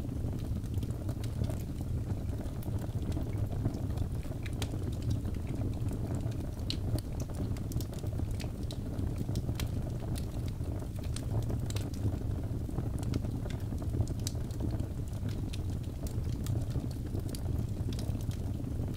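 Wood fire burning in a fireplace: a steady low rumble of flames with frequent small, irregular crackles and pops from the burning birch logs.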